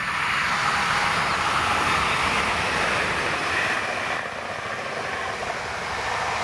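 Stadler FLIRT3 electric multiple unit passing close at speed: a steady rush of wheel-on-rail and air noise, loudest in the first three seconds and easing a little after about four seconds as the train moves away.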